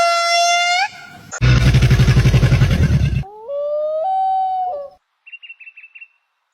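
A run of different animal calls cut one after another. First a drawn-out steady-pitched call that stops just under a second in, then a loud, rough, rapidly pulsing sound with a deep rumble lasting about two seconds, then a pitched call that steps upward, and near the end a quick series of five short high chirps.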